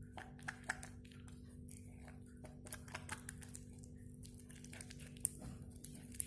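Faint, irregular clicks, taps and crinkling of small objects being handled, over a low steady hum.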